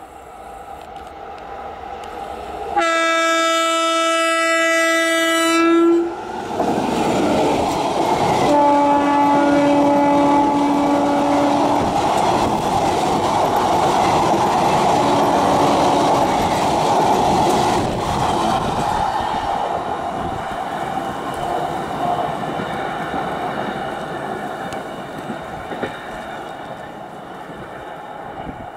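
Indian Railways WAP-4 electric locomotive sounding its horn in a long blast about three seconds in, then a second, lower blast about eight seconds in and a brief one a few seconds later. The express then passes close by with loud wheel clatter over the rail joints, which slowly fades as the coaches go by.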